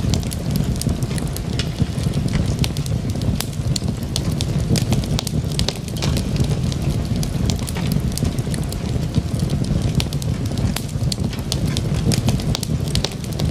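Log fire burning in a fireplace: many sharp crackles and pops from the burning wood over a steady low rumble of the flames.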